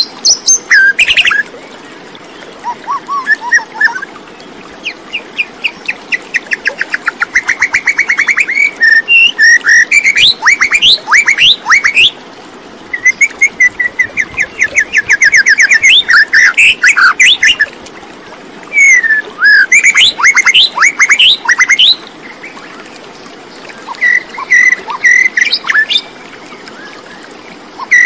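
A songbird singing, with phrases of rapid repeated chirps and trills a few seconds long, separated by short pauses.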